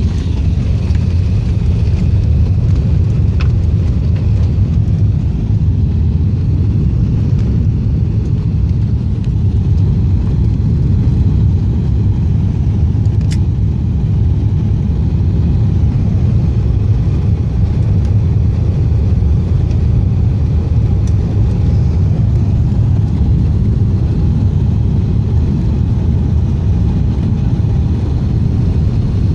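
Emirates Airbus A380 on its landing rollout, heard from inside the cabin: a loud, steady low rumble of engines and runway.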